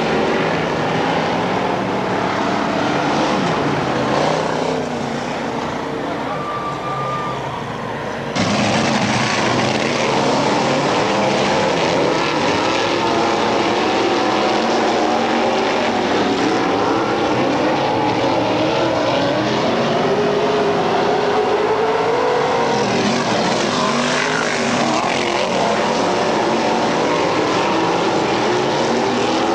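Several dirt-track race car engines running at speed together, their pitches wavering up and down as the cars pass. The sound cuts off abruptly and comes back louder about eight seconds in.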